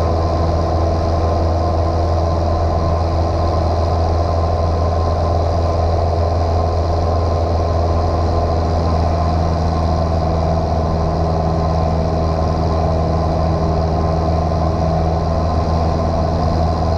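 Light piston airplane's engine and propeller running at a steady, unchanging drone, heard inside the cabin.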